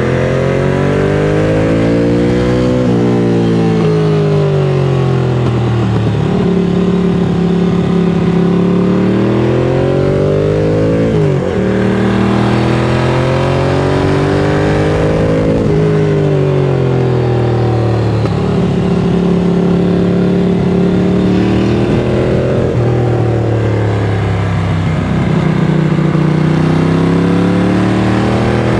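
Ducati Monster 695's air-cooled L-twin through a Mivv X-Cone aftermarket exhaust under way, accelerating and shifting up: the pitch climbs and then drops suddenly at each gear change, about four times, with steady cruising stretches between.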